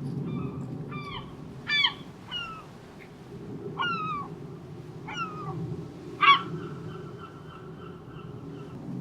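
Gulls calling: about six short calls that slide down in pitch, the loudest near the start and about two-thirds through, followed by one longer held call, over a steady low background rumble.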